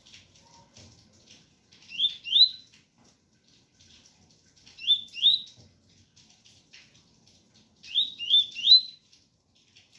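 Double-collared seedeater (coleiro) singing the 'tui-tui' song: short rising two-note phrases about every three seconds, the last one of three notes. A faint patter of rain runs underneath.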